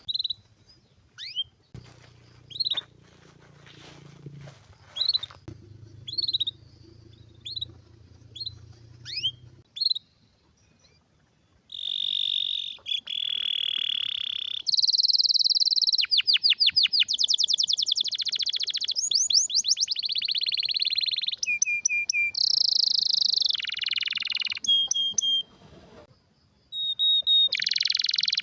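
Domestic canary calling with scattered short chirps, then about twelve seconds in breaking into loud, continuous song of rolling trills and rapid repeated notes, with a brief pause near the end.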